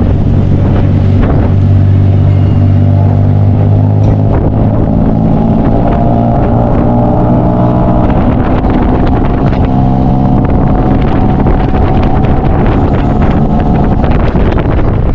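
Vehicle engine running loudly and steadily, heard from on board, with its pitch creeping up slightly midway as it speeds up.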